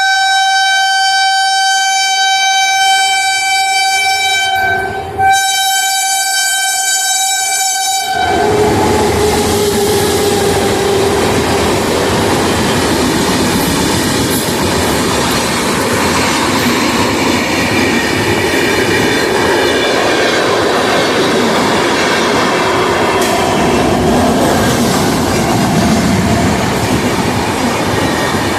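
Locomotive horn of the Karnataka Sampark Kranti Express sounding one long, loud, steady blast, broken briefly about five seconds in. It stops about eight seconds in, and the train's loud running noise with wheel clatter on the rails follows.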